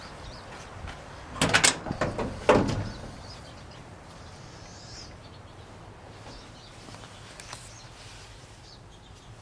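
Two short bursts of clattering knocks about a second apart, over steady outdoor background noise with faint bird chirps.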